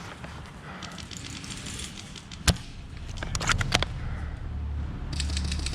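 Airsoft gunfire: one sharp single shot about two and a half seconds in, a few quicker clicks shortly after, then rapid full-auto firing in a fast, even run of shots from about five seconds in.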